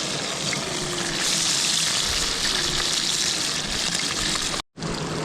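Fish frying in hot oil in a pot: a steady sizzling hiss that swells louder about a second in, over the rush of running river water. The sound cuts out for a moment near the end.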